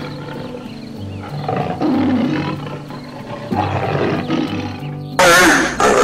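A large animal's low calls repeating every couple of seconds over background music. About five seconds in, a much louder call with wavering pitch cuts in.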